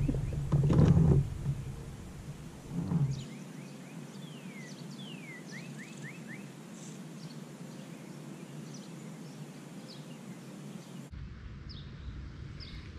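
Small birds chirping faintly over quiet outdoor background noise, including a quick run of short falling chirps about four to six seconds in. Before that come low thumps and rumble in the first second or so, and again briefly near three seconds.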